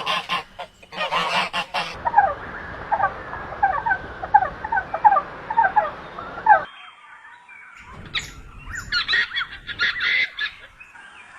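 Birds calling: harsh, honk-like calls, then a run of many short, quick falling chirps that stops abruptly, then harsh calls again after a short pause.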